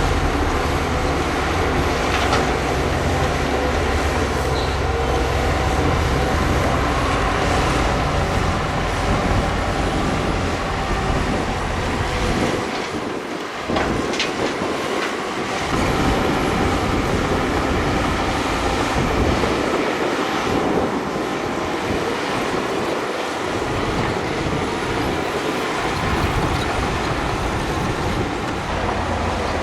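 Crawler bulldozer working: diesel engine running and steel tracks clanking, loud and steady, with the deep rumble dropping away at times in the second half.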